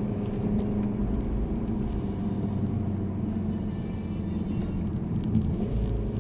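Car engine and tyre noise heard from inside a moving vehicle's cabin: a steady low drone.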